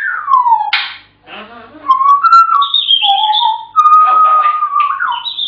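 African grey parrot whistling: a falling whistled glide with a quick upward sweep, a short raspy call, then a string of held whistle notes stepping between low and high pitches.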